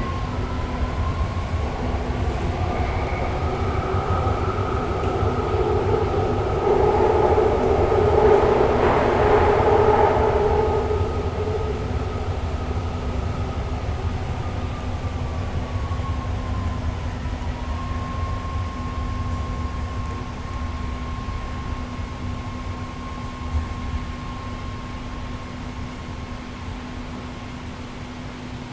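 BART Fleet of the Future train car sounds. A steady electrical whine rises slightly in pitch in the first few seconds, holds, and settles back down a little past the middle, over a low steady hum. A louder rumble swells and fades within the first half.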